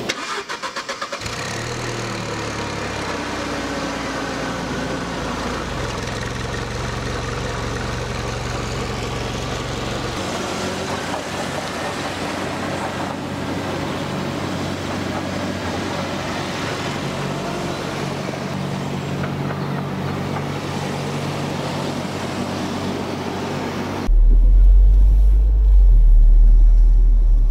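Mercedes-Benz SLK200 Kompressor's supercharged 2-litre four-cylinder engine cranking and catching, then running steadily. About three seconds before the end the sound switches abruptly to a louder, deep rumble.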